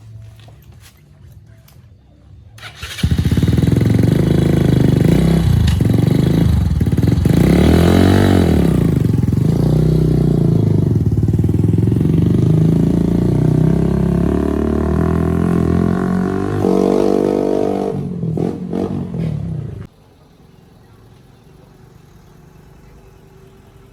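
Off-road motorcycle engine starting about three seconds in, then running and revving up and down for about seventeen seconds before stopping suddenly. It is the freshly repaired bike, which earlier would not start.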